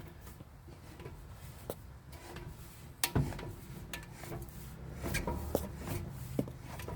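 Scattered sharp clicks and knocks of metal parts being worked by hand, some with a brief ringing. The loudest knock comes about three seconds in, and more follow around five seconds in.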